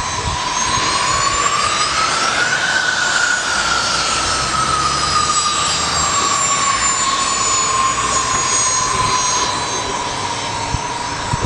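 Jet aircraft engines running loud, a roar with a strong high whine. The whine rises in pitch about two seconds in, then slowly falls back.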